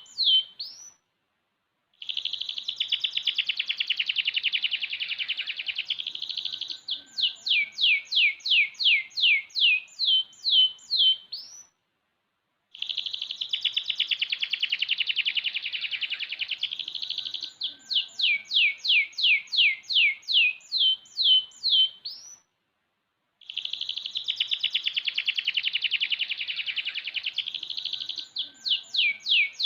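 Six-month-old domestic canary in full song. Each phrase is a dense rolling trill followed by a run of quick downward-sweeping notes, about three a second. The same phrase comes back about every ten seconds, with a brief silent gap between phrases.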